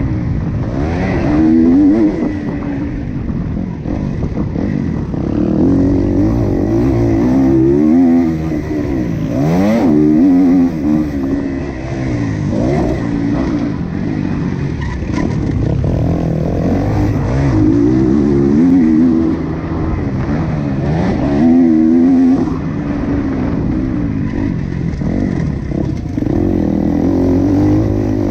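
Motocross motorcycle engine running hard, its pitch rising and falling again and again as the rider opens and closes the throttle through the gears.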